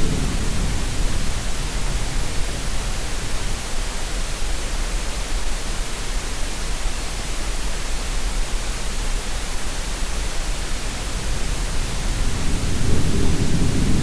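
Steady hiss of green noise mixed with a low rush of sea waves. The surge fades away about a second in and swells up again near the end.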